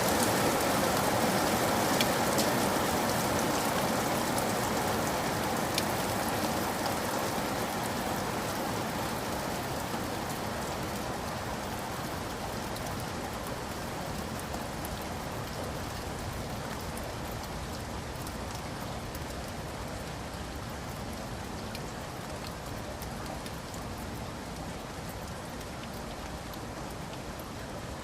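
Steady rain falling, with a few sharp drop ticks early on, gradually growing quieter.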